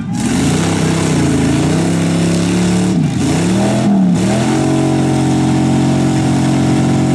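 Demolition derby car engine revving hard under load. Its pitch drops and climbs back twice around the middle, then holds steady at high revs.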